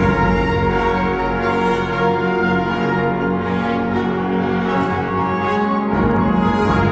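Concert wind band playing sustained chords, with brass prominent. The low instruments drop back in the middle and come in again strongly about six seconds in.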